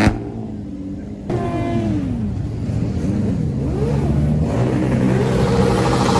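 Car engines revving again and again, their pitch climbing and falling in quick swells, with a sharp click at the very start.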